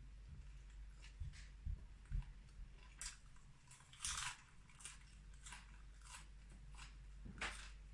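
A person chewing food, with faint scattered mouth clicks and smacks.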